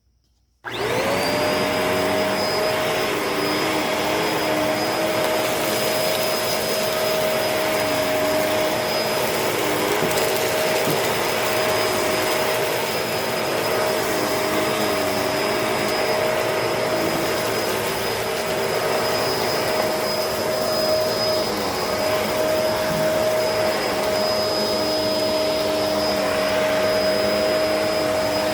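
Bissell CleanView Allergen upright vacuum switched on a little under a second in. Its motor spins up quickly to a steady whine and runs on as it sweeps a dirty carpet.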